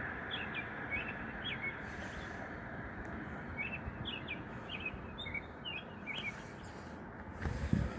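Small birds chirping in short, scattered calls over a steady outdoor hiss.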